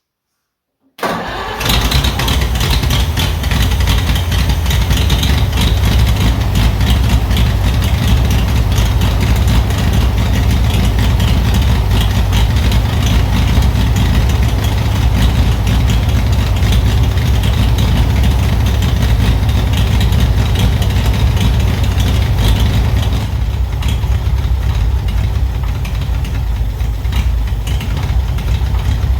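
Oliver 70 tractor's six-cylinder gasoline engine starting abruptly about a second in and then running steadily, easing off slightly near the end. The engine is still not running smoothly, which the owner puts down to the carburetor flooding and feeding too much gas.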